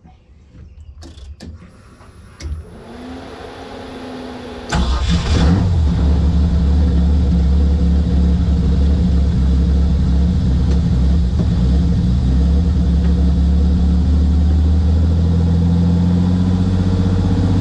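Fully built BMW S50 straight-six in an E36 drift car: after a few clicks and a faint hum, it starts about five seconds in, catches at once and settles into a steady, loud idle.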